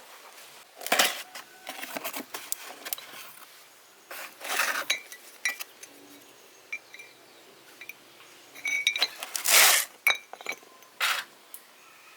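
Metal parts and tools clinking and knocking as they are handled during engine repair work: irregular sharp clinks with brief ringing, loudest in clusters about a second in, around four and a half seconds, and near nine to ten seconds.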